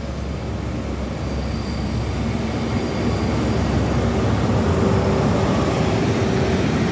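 Class 43 HST diesel power car running into the platform at the head of a test train, its engine and wheels on the rails growing steadily louder as it draws close and passes. It is slowing to stop.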